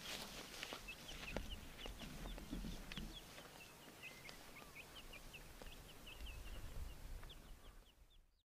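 Faint birdsong: a long run of short, high chirps, a few each second, over a low rumble, fading out near the end.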